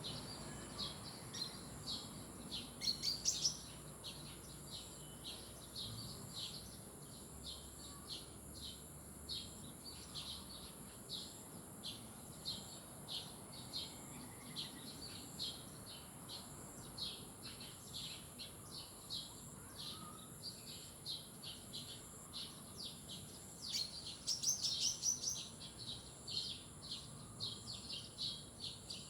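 Birds chirping: short high calls repeating steadily, about two or three a second, with a louder burst of twittering about three seconds in and again near the end, over a steady high-pitched hiss.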